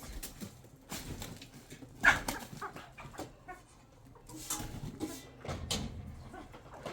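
A dog's short calls, the loudest about two seconds in, among scattered knocks.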